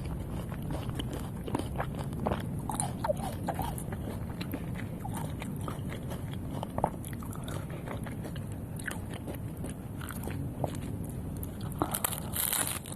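Someone biting into and chewing tacos close to the microphone: irregular crisp crunches and crackles, with a louder crunch near the end.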